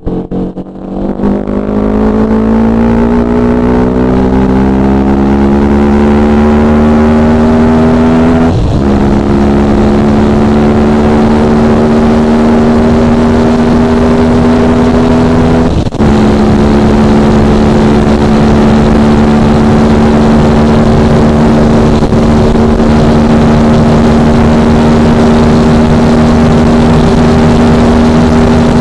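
Yamaha R15 V3's 155 cc single-cylinder engine pulling at full throttle, its note climbing steadily. It is cut by two quick upshifts, about 9 and 16 seconds in, and after each one the revs rise more slowly as the bike works up toward top speed.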